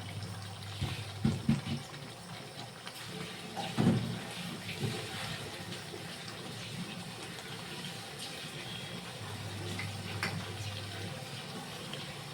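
Curry simmering in a cooking pot, a steady watery hiss, with several short knocks of a utensil against the pot, the strongest about a second in and around four seconds.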